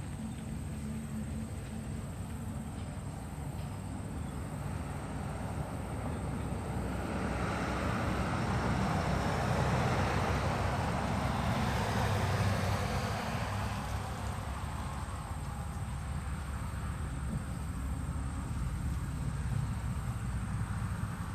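A vehicle passing by: a rush of road noise that grows louder, peaks about halfway through, then fades, over steady low background noise.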